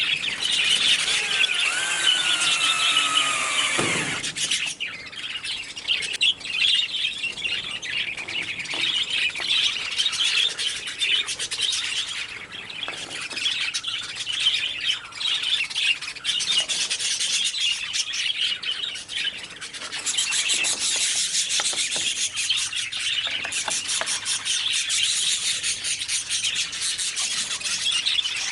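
A flock of budgerigars chattering and chirping busily in an aviary. For the first four seconds a high squeal, gliding in pitch, sounds over them and cuts off abruptly.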